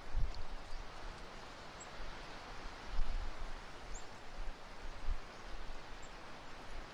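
Strong gusty wind rushing steadily, with low thumps as gusts buffet the microphone, the loudest about three seconds in.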